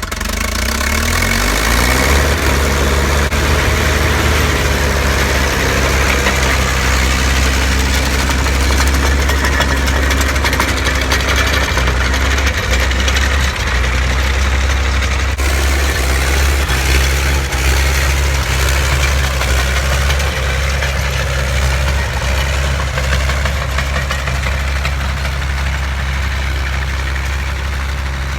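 Massey 50 tractor engine revving up over the first couple of seconds, then running steadily at speed.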